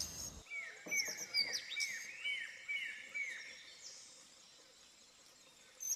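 A bird calling: a run of about seven short notes, each falling in pitch, about two a second, with fainter higher chirps above them. The calls fade out a little past halfway.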